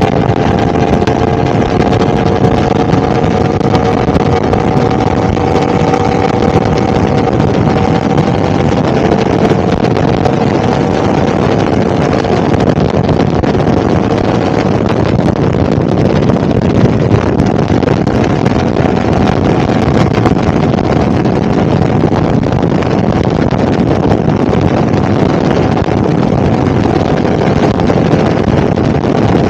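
Yamaha R1's crossplane inline-four running at a steady, even throttle under way, its engine note rising slowly over the first ten seconds or so, with loud wind rush over the microphone.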